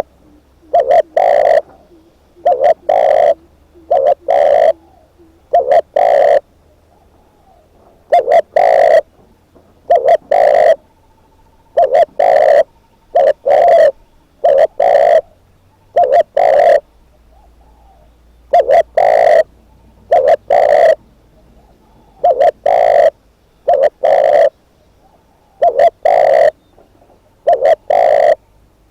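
Spotted dove, a caged decoy bird, cooing over and over: short low coos in twos and threes, repeating every couple of seconds, recorded so loud that they distort.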